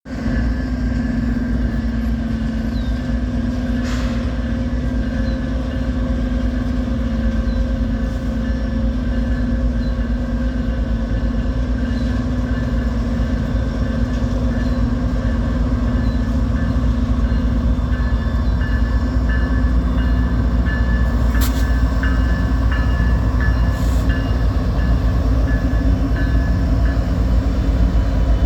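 Train running steadily: a continuous loud low rumble with a steady hum, and a few sharp clicks about four seconds in and again near the end.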